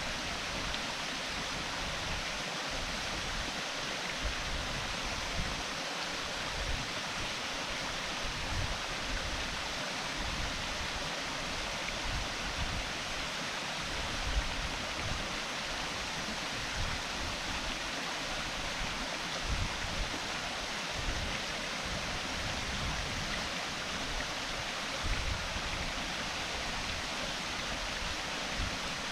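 Waterfall: a steady rush of falling water, with irregular low rumbles underneath.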